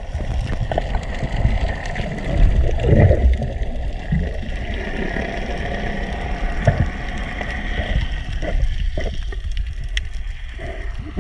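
Water sloshing and gurgling over a steady low rumble, with a few short knocks.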